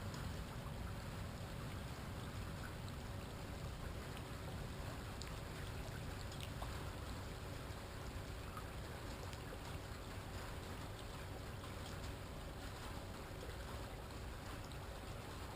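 Steady hiss and low rumble of rain and water around a dock, with faint scattered ticks.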